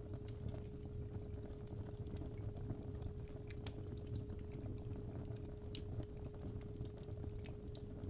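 Fireplace fire crackling, with irregular small pops and snaps over a low rumble, under a steady 417 Hz sine tone.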